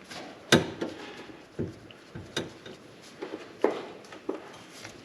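Scattered knocks and clinks of hand work on car exhaust parts, about half a dozen, spread irregularly, the loudest near the start.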